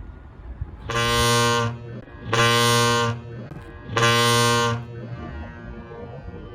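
A ship's horn sounding three short blasts of the same low pitch, evenly spaced; three short blasts is the signal that a vessel is going astern.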